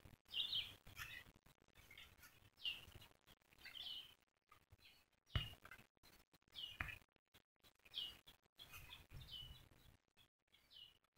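Faint, short bird chirps repeating every second or so, with a couple of soft knocks partway through.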